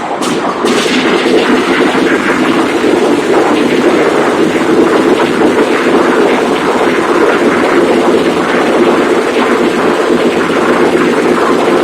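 Large diesel engine converted to spark ignition and running on wood gas, running steadily as a 100 kWe generator set.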